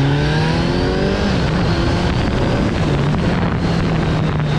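2020 Kawasaki Z900's 948 cc inline-four engine and exhaust under way, pitch rising as it accelerates, then dropping and levelling off about a second in, with another short dip a couple of seconds later.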